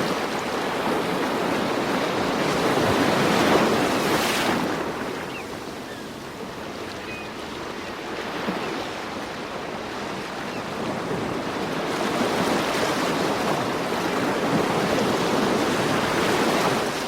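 Ocean surf: waves breaking and washing in, swelling loudest about three to four seconds in, easing off, then building again in the second half.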